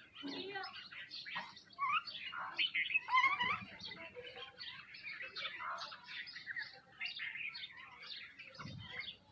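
A flock of small birds chirping and twittering without pause, many short overlapping calls. Two brief low thuds sound, about three and a half seconds in and near the end.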